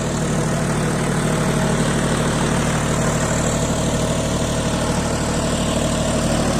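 John Deere 5050D tractor's three-cylinder diesel engine running steadily at a constant speed.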